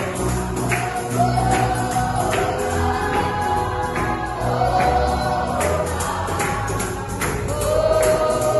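Gospel praise music: a group of voices singing together over a bass line, with a tambourine keeping a steady beat.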